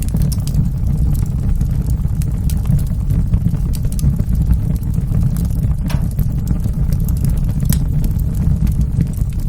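Wood fire burning in a fireplace: a steady low roar with scattered sharp crackles and pops, one more prominent pop about six seconds in.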